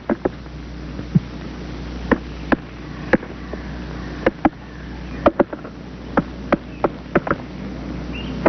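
Great spotted woodpecker knocking its bill against a branch in single, irregularly spaced taps, sounding the wood for a hollow spot where beetle grubs have tunnelled. A steady low hum and hiss runs underneath.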